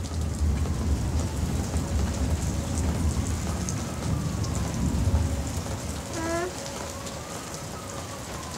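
Steady heavy rain falling, with a low rumble of thunder that fades out about six seconds in.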